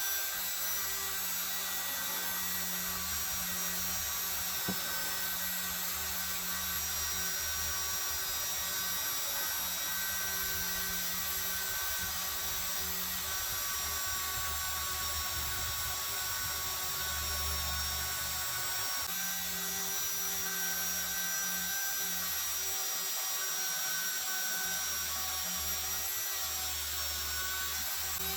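Power-tool wire wheel spinning steadily against the rusty metal of an antique ice claw, stripping rust: a constant whir with a high whine and a low hum.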